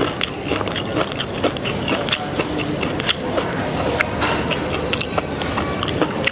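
Crispy fried potato patty being chewed close to the microphone: many irregular crunches and mouth clicks.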